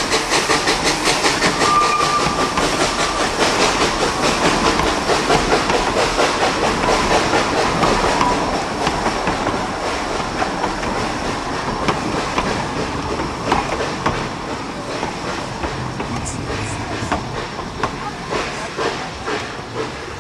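Narrow-gauge steam locomotive working a train, its exhaust chuffing in a steady rhythm of about two to three beats a second, gradually fading as it moves away.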